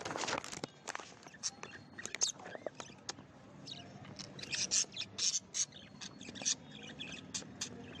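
Budgerigars chirping and chattering in short, high, irregular calls, mixed with small clicks and scratches, with a busier run of chirps about halfway through.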